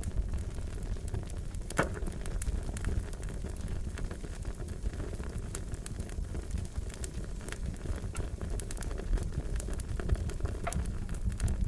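Fire crackling: a steady low rumble with scattered irregular pops and snaps, one louder pop about two seconds in.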